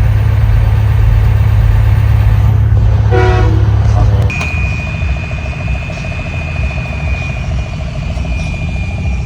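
A loud, deep vehicle rumble for about four seconds. It then drops and gives way to a long, steady horn-like tone with a pulsing lower note underneath, held to the end.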